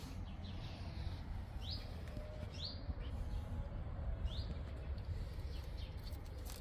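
Songbird chirping outdoors: three short, high, upward-sweeping chirps spread through the few seconds, over a steady low rumble and a few faint clicks.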